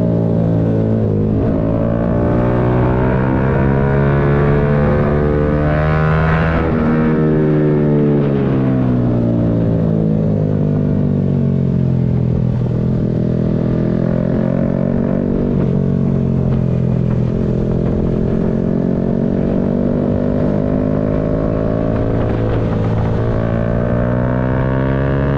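Yamaha MT-125's single-cylinder 125 cc four-stroke engine under way, its note climbing and falling as the bike accelerates, shifts and eases off. There is a quick drop in pitch about six seconds in, a long steady stretch in the middle, and a climb near the end.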